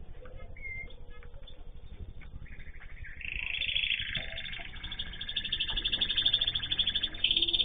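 Small pet songbirds singing. A few faint chirps, then from about two and a half seconds in a loud, fast trilling song of rapidly repeated high notes.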